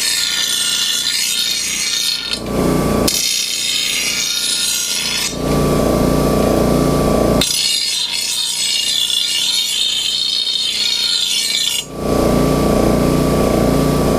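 Electric grinder sharpening a steel lawn mower blade. Three long stretches of harsh, hissing grinding against the blade's edge are broken by short spells where the grinder's motor runs free with a steadier hum.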